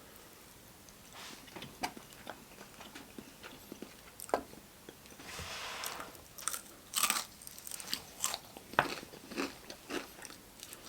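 Close-miked biting and chewing of crispy Popeyes fried chicken, the crust crunching in irregular sharp crackles. The loudest crunches come around seven and nine seconds in.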